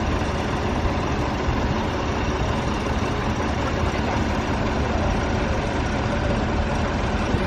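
Tractor diesel engine running steadily close by, a low, even engine sound with no change in speed.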